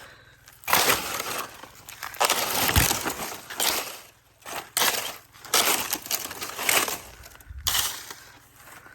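Dry plant debris crackling and crunching in a series of irregular bursts as it is pulled apart and crushed by hand.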